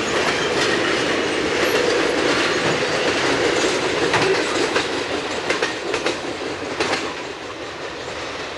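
Freight train cars rolling past, their steel wheels clacking over rail joints in an irregular run of clicks over a steady rumble, easing a little near the end.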